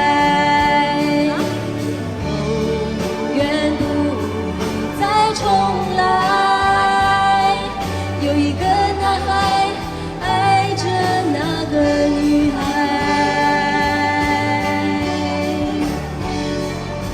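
Female singer holding long wordless notes over pop-ballad accompaniment with a steady stepping bass line: the closing bars of the song.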